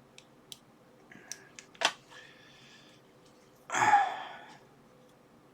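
Small clicks and taps of test leads being clipped onto a MOSFET's pins for a component analyzer, several in the first two seconds, the loudest just before 2 s. About four seconds in comes a short, louder rush of breath-like noise.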